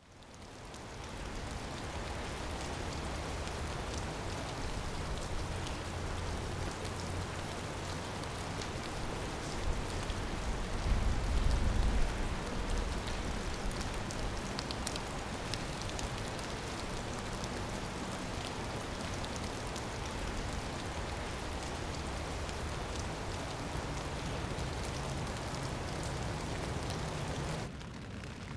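Steady rain falling, with a low rumble that swells and peaks about eleven to twelve seconds in.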